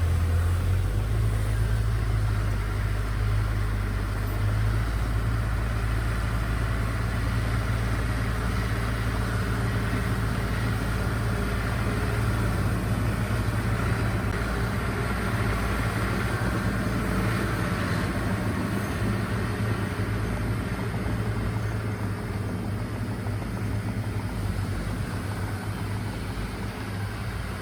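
Diesel engine of heavy earthmoving equipment running steadily with a deep low hum. It eases slightly in level toward the end.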